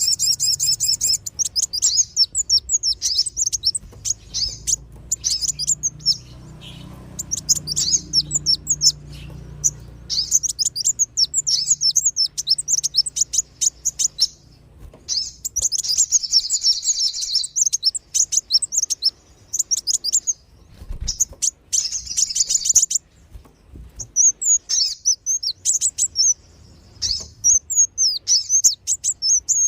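Bird-lure recording of kolibri wulung (a sunbird) and sogon calls: bursts of rapid, high, thin chirps and twitters, broken by short pauses.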